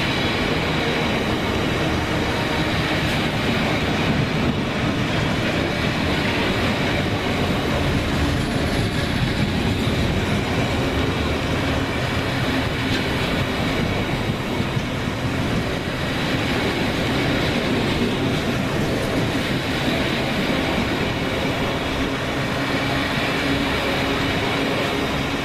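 Steady running noise of a Class 170 Turbostar diesel multiple unit heard from on board: diesel engine hum and wheels on the rails, with some clickety-clack.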